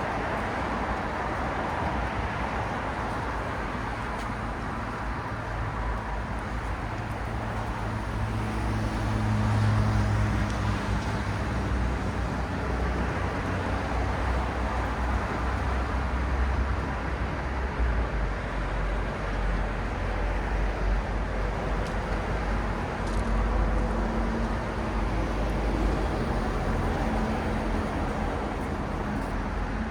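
City road traffic at night: a continuous rumble of passing cars and buses, their engines and tyres swelling and easing as vehicles go by.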